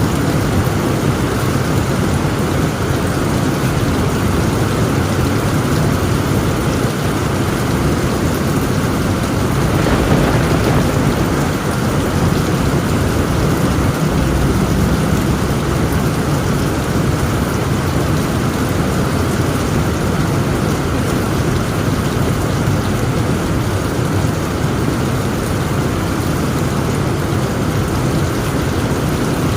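Heavy rain pouring steadily on a tent roof, with a deep continuous rumble of thunder under it and a brief swell about ten seconds in.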